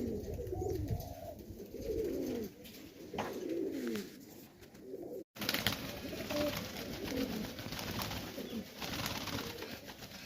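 Highflyer pigeons cooing, several overlapping rising-and-falling coos, with a brief dropout a little after halfway.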